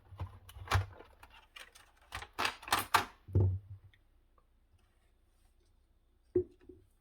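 A quick run of sharp plastic clicks and knocks from PlayStation 4 console parts being handled and fitted together. It then goes quiet, with one more knock near the end.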